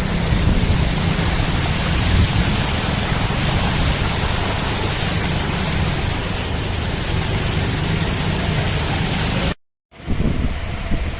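Heavy rain and strong wind: a steady hiss of rain with low wind noise buffeting the microphone. It cuts out abruptly near the end, giving way to a quieter background.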